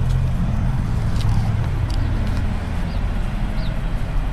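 Steady low rumble of vehicle engines and road traffic, with a few faint ticks and short high chirps over it.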